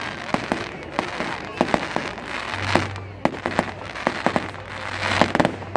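Fireworks going off: an irregular, rapid string of sharp bangs and crackles over a steady haze of noise. A low steady hum comes in about halfway through.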